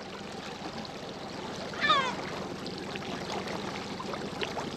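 A gull gives one short call about two seconds in, over a steady wash of water lapping against a small boat's hull.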